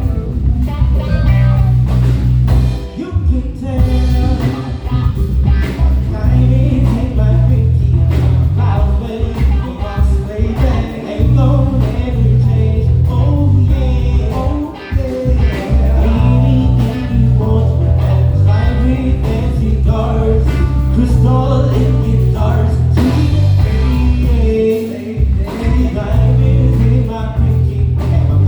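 A live band playing a soul-blues tune: a strong, pulsing bass line and drums under keys, with a melody line on top.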